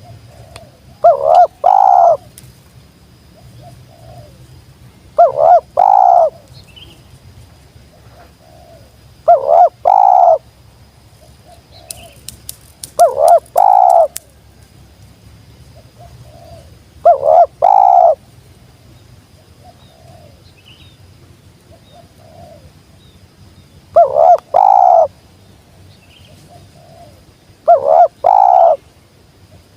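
A spotted dove (tekukur) cooing over and over: seven loud, low, throaty coo phrases of about a second each, coming every four seconds or so. Each phrase is led in by a soft short note. A brief patter of clicks falls near the middle.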